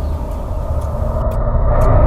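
A deep, loud rumble with a rough hiss above it, swelling louder toward the end.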